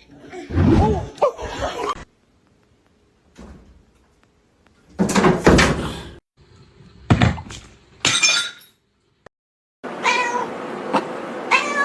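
Domestic cats meowing, heard in several short separate clips cut together, with abrupt silent gaps between them.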